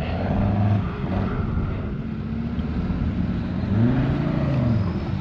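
Ford Ranger's engine revving as the 4WD climbs a steep, rutted hill, the revs rising and dropping again about four seconds in.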